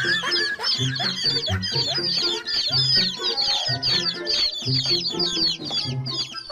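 A crowd of chicks peeping constantly, many short high chirps overlapping, over background music with a repeating low bass line.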